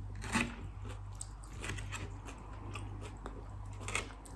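Close-miked mouth chewing food, with irregular wet, crunchy bites and crackles; the sharpest come about half a second in and near the end.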